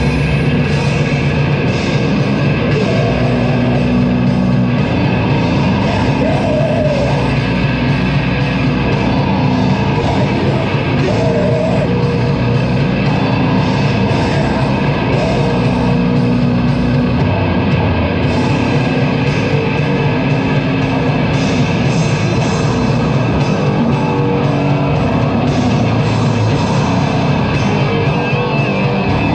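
Loud live heavy metal band playing: distorted guitars and drums in a dense, unbroken wall of sound.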